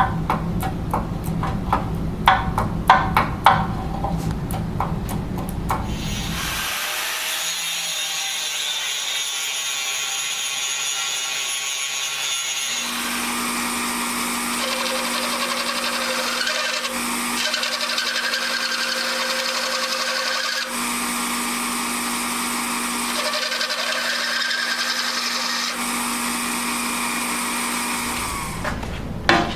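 Power drill boring into a steel loader arm, running steadily for about twenty seconds with a few brief dips, after several sharp metal clanks near the start.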